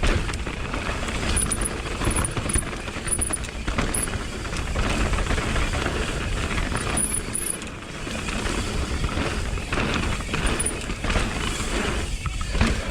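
Mountain bike being ridden fast down a dirt trail: a steady rush of wind and tyre noise with rattles and knocks from the bike, a louder knock about half a second before the end.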